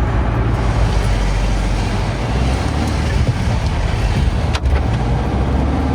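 Car driving at motorway speed, heard inside the cabin: a steady low rumble of engine and tyres on the road, with one brief click about four and a half seconds in.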